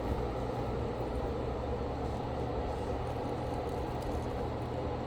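Steady whir of an electric fan or blower with a low, constant hum and no change in level.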